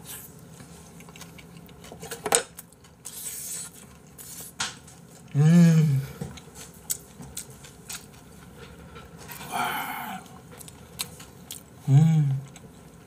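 Close-up mukbang eating sounds: wet chewing of a mouthful of spicy seasoned raw oyster, with a few sharp clicks of chopsticks on the dishes. Twice the eater hums a closed-mouth "mmm" of relish that rises and falls in pitch, about 5 s in and again near the end.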